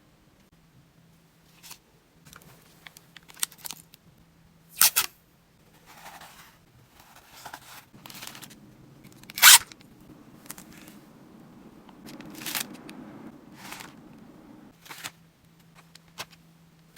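Hands packing a parcel: rustling and crinkling of wrapping materials with a few sharp clicks, the loudest about five and nine and a half seconds in. Under it runs the steady low hum of an air conditioner.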